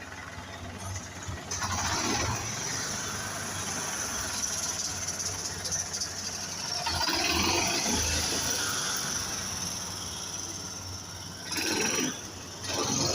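Isuzu garbage truck on the move: the engine runs under a steady high hiss, with two short, louder noisy bursts near the end.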